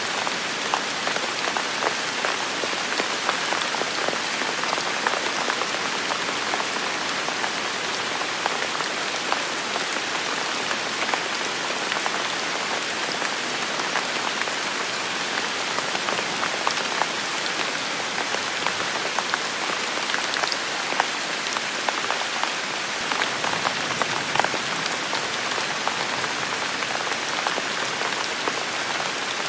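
Heavy rain falling steadily, a dense even hiss with many separate drops tapping throughout.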